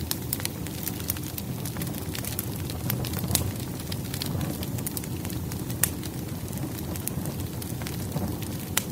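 Wood fire burning: frequent irregular crackles and pops over a steady low rumble of flames, with a few louder snaps.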